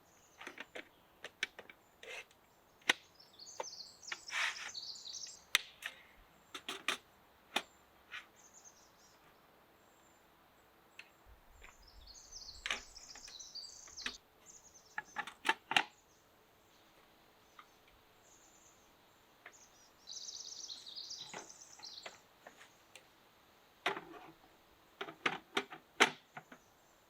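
A songbird in the trees sings three high, rapid, tumbling phrases, each about two seconds long, about eight seconds apart; it was taken at the time for a Pacific wren. Loud, sharp clicks and knocks close by come in clusters between the phrases.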